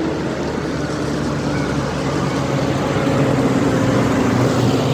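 Engine of a passing tractor or truck running steadily, growing a little louder about three seconds in as it comes closer.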